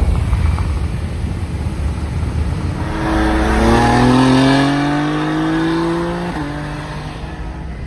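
V8 street-race car accelerating hard, its engine pitch rising steadily and loudest about halfway through, then dropping suddenly at a gear change before fading. A steady low wind and road rumble runs underneath.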